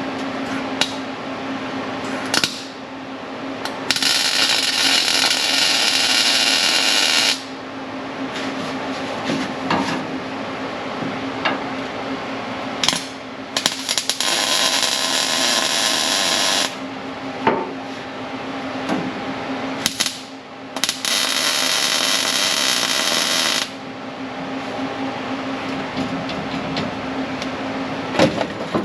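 Welder laying three short welds of about three seconds each, each a loud crackling hiss, on the seat mounts in the car's floor; the welder is turned up hot to melt the metal in for good penetration. A steady low hum and a few clicks run between the welds.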